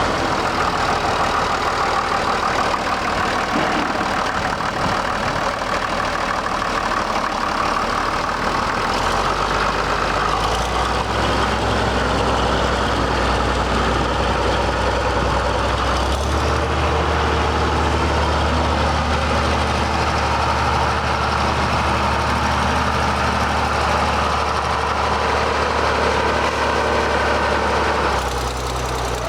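Case 930 tractor engine running steadily. Its low tone shifts about halfway through as the engine speed changes.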